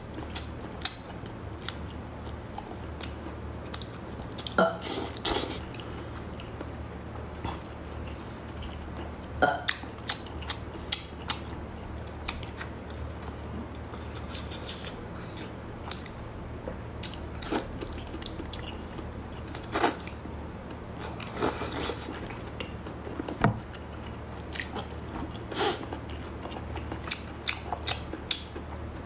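Close-miked chewing and biting of braised octopus, with scattered sharp clicks and short wet mouth noises over a steady low hum.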